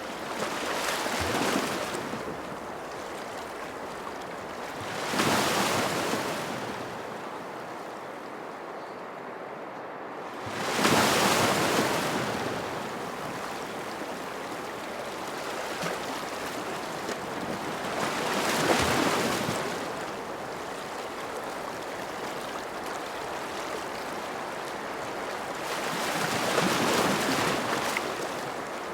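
Ocean waves: a steady wash of water, with five surges that swell and fade, each lasting a couple of seconds.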